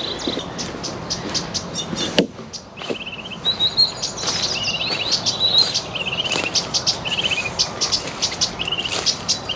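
Several songbirds singing at once in a spring dawn chorus: quick high chirps overlapping with short, repeated trilling phrases. A single sharp click comes about two seconds in.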